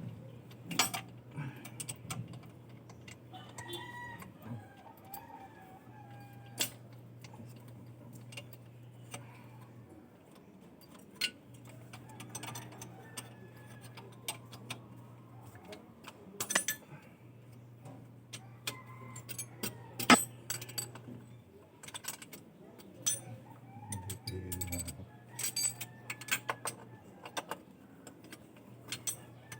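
Hand tools and metal engine parts clinking and knocking in scattered, irregular taps during work on an engine, with a low hum that switches on and off every few seconds.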